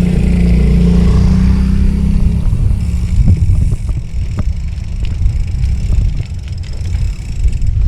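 Wind rumbling on the microphone while riding a bicycle, with a motor vehicle's engine humming close by for the first two seconds or so before fading, then a few scattered knocks.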